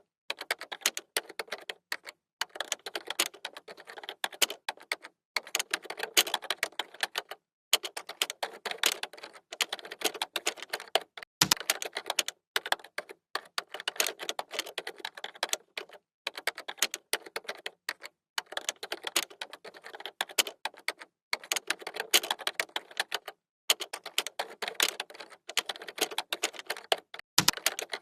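Computer keyboard typing: fast runs of key clicks broken by brief pauses, with a deeper thump twice.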